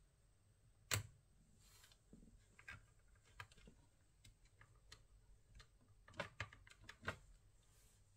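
Irregular light clicks and taps over a quiet room: one sharper click about a second in, scattered small ticks after it, and a quick run of clicks around six to seven seconds in.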